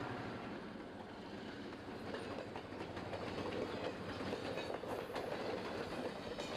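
Diesel-hauled passenger train running on the track: a steady rumble with the wheels clicking over the rail joints.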